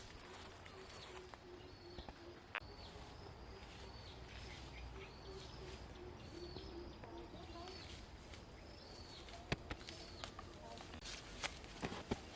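Faint outdoor forest ambience: a short high chirp repeats roughly once a second over a faint lower tone, with a few sharp clicks or knocks near the end.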